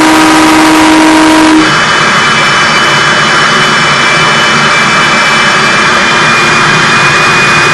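Jet truck's jet engine running very loud, a dense rush with a steady high whine. A horn sounds over it for the first second and a half, then cuts off.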